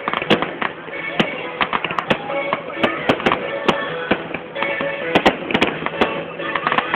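Fireworks going off: rapid, irregular sharp cracks and bangs, several a second, over music playing.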